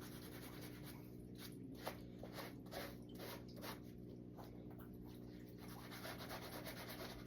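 Faint rubbing strokes as a sneaker is scrubbed clean by hand, over a steady low hum.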